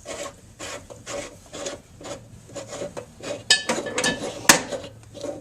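The threaded cap of a Delta washerless kitchen faucet is being unscrewed, its threads grating in a run of short rasping strokes about two a second. A few sharp metallic clinks follow near the end, the loudest about four and a half seconds in.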